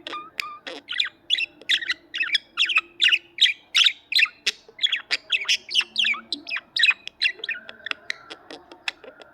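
Budgerigars chattering: a rapid, unbroken run of short chirps and warbles, several a second.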